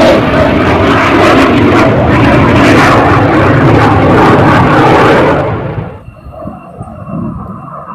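Twin General Electric J85 turbojets of an F-5 Tiger III fighter, a loud jet roar as it flies by. About five and a half seconds in the roar falls away sharply, leaving a much quieter sound with a thin steady high whine.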